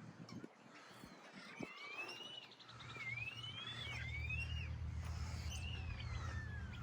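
Several songbirds calling over one another with short whistled notes that rise and fall, and a brief trill about two seconds in. About three seconds in, a steady low rumble starts and stays the loudest sound.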